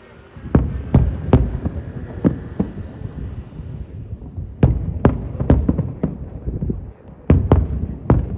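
Fireworks shells bursting overhead: a rapid series of deep booms with sharp cracks, coming in three volleys of three to five bursts each.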